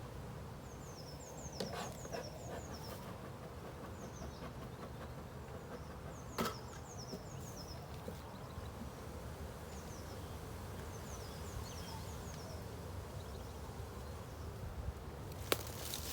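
Honeybees humming steadily around an open hive. Two sharp knocks come about a second and a half in and again about six seconds in, and a small bird calls in runs of short, falling high chirps.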